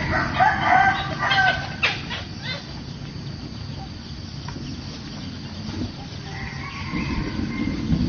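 A bird calling: a run of short, pitched calls in the first two and a half seconds, then quieter, with a few thin high calls about six seconds in. A low rumble rises near the end.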